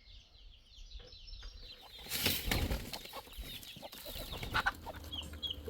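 Chickens clucking, louder and busier from about two seconds in.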